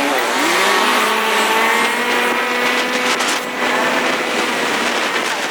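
Motorcycle engine running under the rider: its pitch dips right at the start, climbs over about the first second and then holds steady, over a constant hiss.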